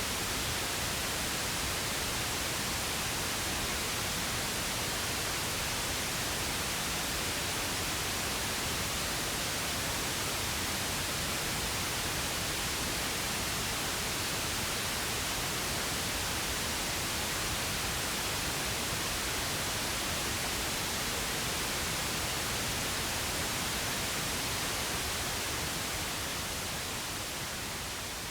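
Synthetic pink noise: a steady, even hiss with no tones or events, starting to fade out in the last couple of seconds.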